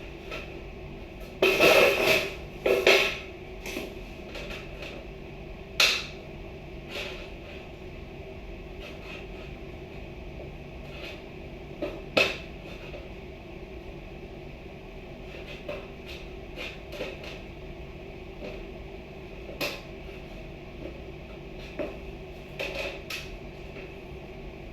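Scattered knocks and clatters of work being done, with a loud cluster about two seconds in and single sharp ones around six, twelve and twenty seconds, over a steady background hum.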